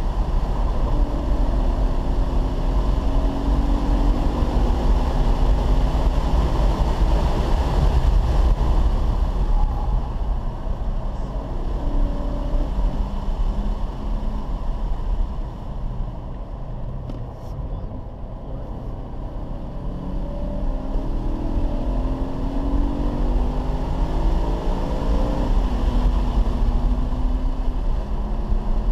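Car engine heard from inside the cabin while lapping a race track, its note climbing repeatedly under acceleration. About halfway through it eases and goes quieter for a few seconds, then climbs again, with steady wind and road noise underneath.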